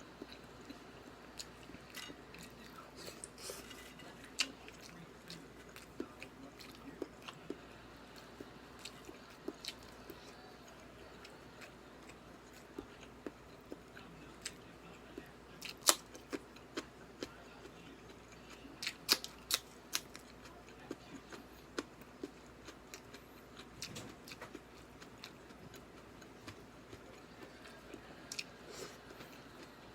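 A person eating: chewing with scattered sharp clicks and taps. The loudest click comes about halfway, and a quick run of clicks follows a few seconds later.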